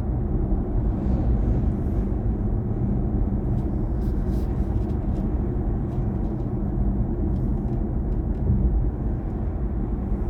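Steady road and tyre rumble from a BMW i4 M50 electric car driving along, with no engine note.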